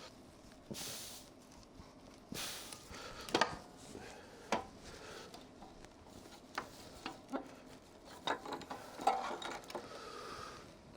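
Scattered clinks and knocks of metal car parts and hand tools being handled in a workshop, with two brief hisses within the first three seconds.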